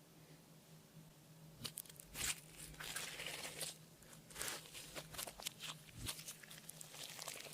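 Clear slime being squished and worked by hand, giving irregular sticky crackling and popping that starts about one and a half seconds in.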